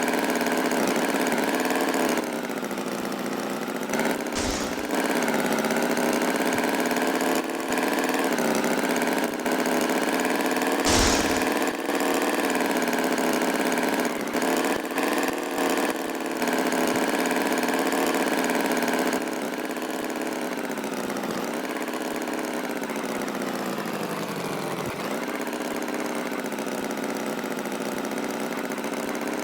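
Tractor engine sound effect running steadily, its pitch wavering slightly, with two brief louder bursts about four and eleven seconds in.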